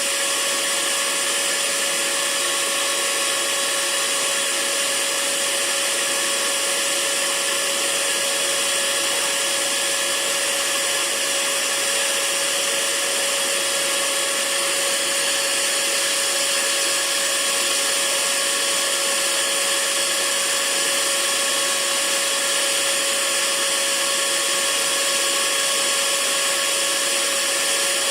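Hair dryer running steadily: an even rush of blown air with a constant motor tone, unchanging throughout.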